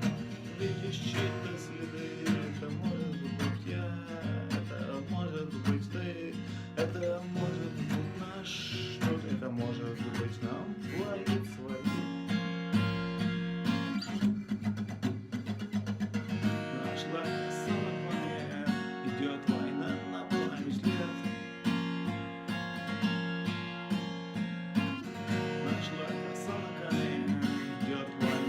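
Acoustic guitar strumming chords in a steady, repeated rhythm.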